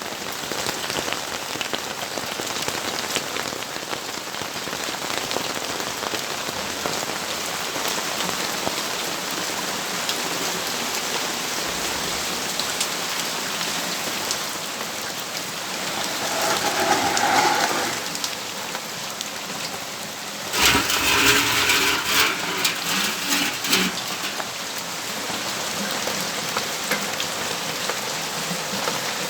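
Steady rain falling and splashing on surfaces. A louder noise swells up for a few seconds about two-thirds of the way through.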